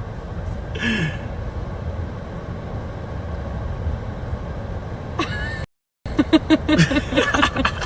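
Steady low road rumble of a car interior while driving. Near the end, after an abrupt cut, come short, rapid voiced sounds.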